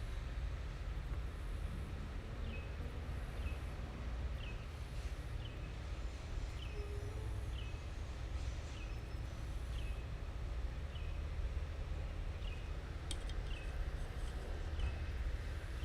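A bird repeating a short, falling call about once a second, over a steady low rumble. A brief click near the end.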